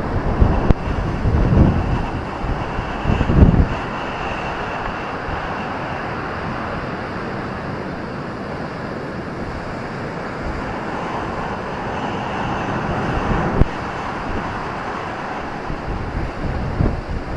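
Ocean surf breaking and washing onto a beach as a steady roar, with wind buffeting the microphone in low gusts during the first few seconds and again near the end.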